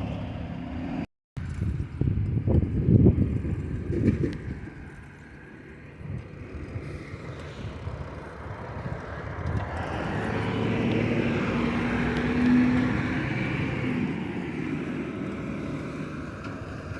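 Recycling truck at work: a few loud clattering knocks early, then its engine running steadily, growing louder about ten to thirteen seconds in with a humming tone.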